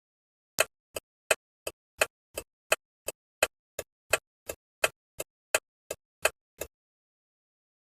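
Bus turn-signal indicator ticking: alternating loud and softer clicks, about three a second, that stop after about six seconds.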